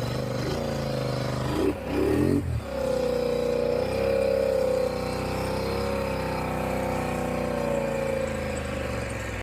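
Polaris Sportsman ATV engine running, revved briefly about two seconds in, then holding an even note. It is running smoothly on new spark plugs and plug wires that cured its misfire.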